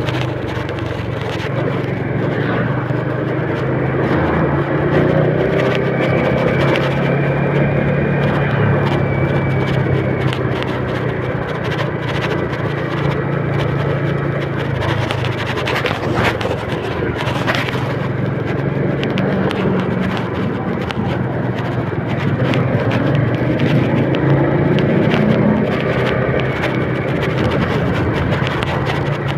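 A motor running steadily under a constant rushing noise, as from a moving vehicle.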